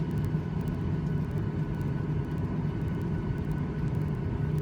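Airliner cabin noise after landing: the engines running steadily as a low rumble with a few faint steady whining tones, heard from inside the cabin.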